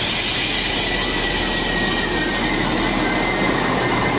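Sprinter diesel railcar (a Siemens Desiro DMU) rolling slowly past at close range as it pulls into the station. A thin high squeal, typical of wheels or brakes, rises over the steady running noise in the middle.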